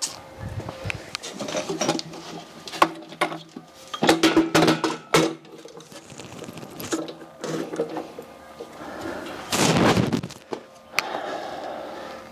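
Irregular metal clanks, knocks and scrapes, with short creaks and squeaks, as a shop crane and a small trolley carrying a benchtop surface grinder are shifted about. A louder rushing scrape comes about ten seconds in.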